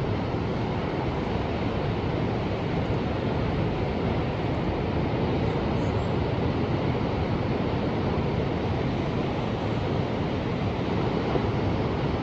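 Ocean surf washing steadily, a continuous rush with no distinct single wave crash.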